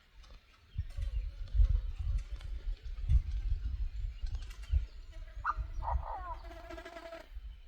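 Bird call played through a loudspeaker: a nasal call with several stacked pitches that rise and fall, lasting about two seconds from a little past halfway in. Low rumbling knocks run under it from about a second in.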